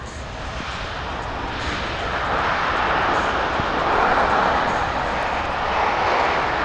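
Boeing C-17 Globemaster III's four turbofan engines running at high power in reverse thrust, a loud jet roar that builds to a peak about four seconds in, eases a little and swells again.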